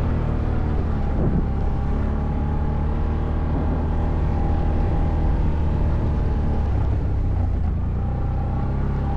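ATV engine running steadily while riding off-road, a low even drone that barely changes in speed.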